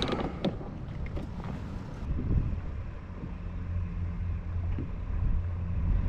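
Strong wind buffeting the microphone, a steady low rumble, with a few small knocks in the first second or so.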